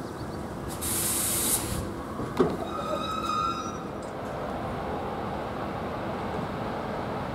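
Passenger train coaches moving slowly through a station: a brief loud blast of compressed-air hiss from the brakes about a second in, then a clank and a short high metallic squeal. After that comes steady rail and station noise.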